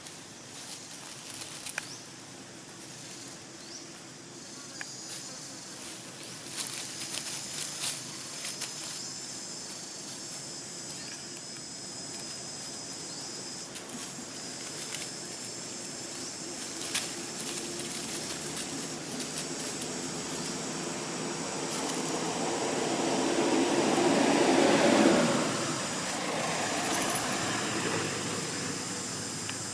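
Outdoor ambience with a steady high insect drone and scattered small clicks. A broad rumble swells to a peak about 25 seconds in and then falls away quickly, as a passing motor vehicle does.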